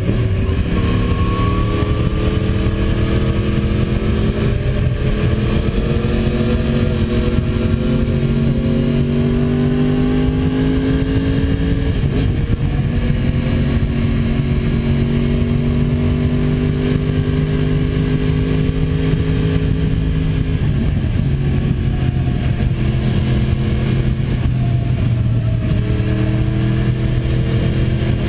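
Yamaha YZF-R1's inline-four engine running hard under acceleration, its pitch climbing slowly, with a sudden drop about 12 seconds in and another around 21 seconds in. A steady rush of wind noise runs underneath.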